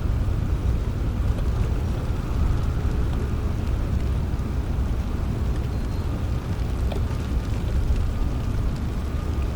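Steady rain with a deep, low rumble of distant thunder underneath, easing off slightly over the stretch. A few faint drop ticks sound through it.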